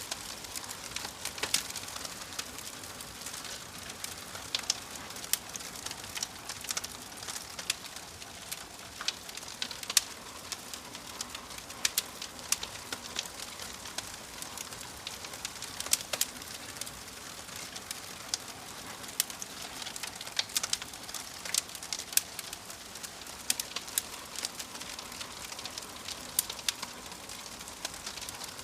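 Wood fire crackling in a fireplace: sharp, irregular pops and snaps over a steady hiss.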